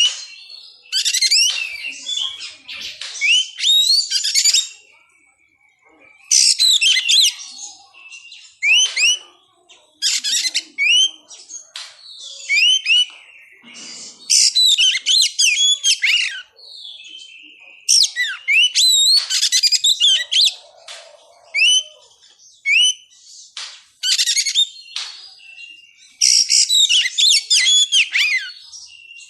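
Oriental magpie-robin (kacer) singing loud, varied whistled phrases with quick rising and falling notes, in bursts of one to two seconds with short pauses between.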